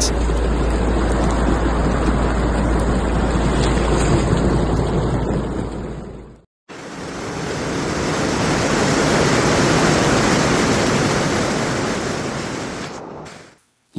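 Floodwater rushing in a steady roar, with wind buffeting the microphone as a deep rumble during the first part. It cuts to a brief silence about six and a half seconds in, then a second stretch of rushing water fades up, holds and fades away near the end.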